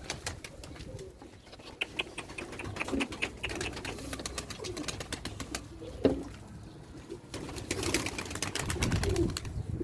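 Domestic pigeons cooing softly, with runs of quick sharp clicks a couple of seconds in and again near the end.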